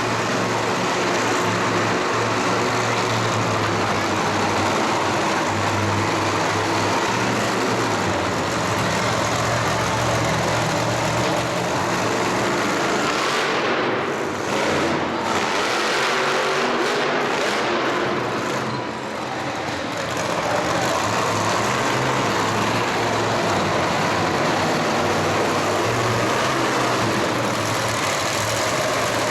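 Monster truck engine running loud and continuous, with two short drops in level about halfway through.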